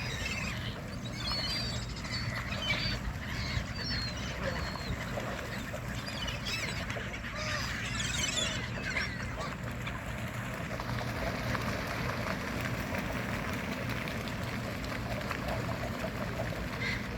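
Waterbirds calling, a flock of ducks and gulls giving repeated wavering squawks, most of them in the first half, over a steady low rumble.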